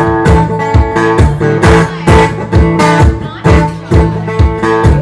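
Live band music without vocals: guitar over a steady beat.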